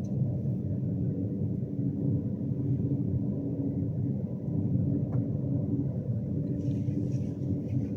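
Class 390 Pendolino electric train running, heard inside the passenger saloon: a steady low rumble with a faint constant hum over it, and a few light ticks near the end.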